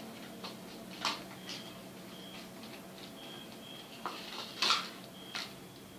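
Several short plastic clicks and knocks from handling a netbook's case and parts during reassembly, the loudest about three-quarters of the way through.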